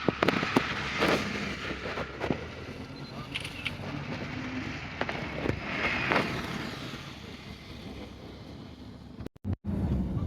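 A vehicle running, with scattered clicks and clatter and a short squeal about six seconds in; the sound drops out briefly near the end.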